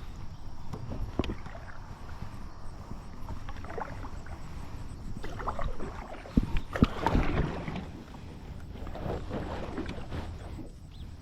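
Kayak being paddled toward shore: water swishing and splashing with each stroke, in several swells. A cluster of sharp knocks about six to seven seconds in is the loudest sound.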